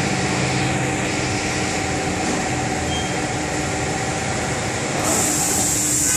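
A machine running with a steady hum, joined by a high hiss about five seconds in.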